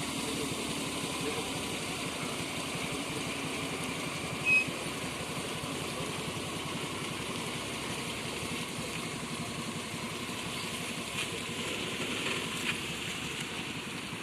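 Car engine running steadily as the car is driven, with even road noise. A short high beep sounds once about four and a half seconds in.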